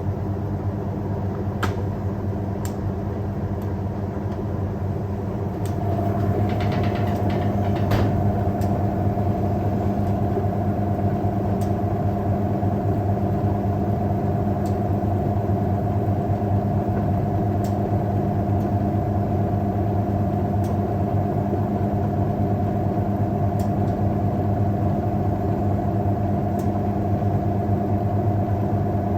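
Hoover 1400 top-loader washing machine running with a steady motor hum. About six seconds in a higher whine joins and the hum gets a little louder, with a few light clicks.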